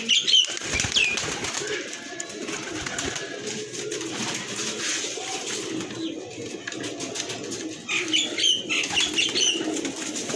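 Many domestic pigeons cooing together in a continuous low murmur, with some wing flapping now and then.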